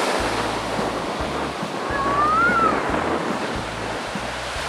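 Ocean surf washing on the beach, with wind buffeting the microphone in low rumbles. A brief faint voice-like call rises and falls about two seconds in.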